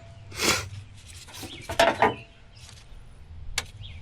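Short metal-on-metal rasps from a bolt being worked into the truck's steering gear, twice, then a sharp click near the end. The threads are binding as the bolt turns.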